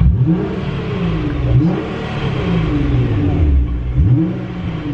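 Nissan GT-R R35's twin-turbo V6 with a custom titanium cat-back exhaust, revving hard, the pitch sweeping up and dropping back three times.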